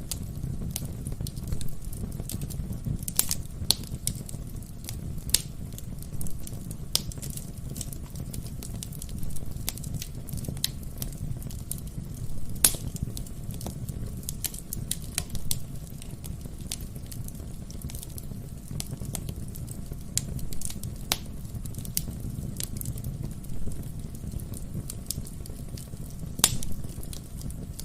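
Wood fire crackling in a fireplace: a steady low rumble of flames with irregular sharp pops and snaps of burning logs.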